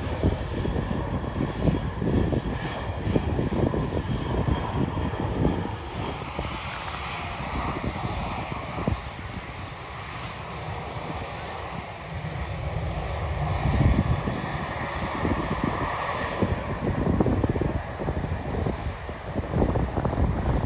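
Jet airliner's engines running as it passes: a steady whine over a rumbling roar that swells about two-thirds of the way through, with wind buffeting the microphone.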